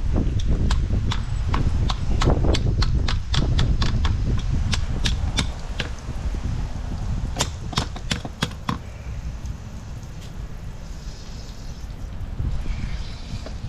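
Irregular hard clacks and knocks, several a second, over a low rumble, thinning out about nine seconds in. Near the end there is a faint hiss like trickling water.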